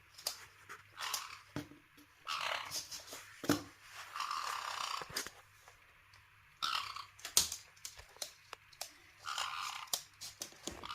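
Pet caique parrots making short, raspy noises with scattered small clicks, about five bursts spread across the stretch.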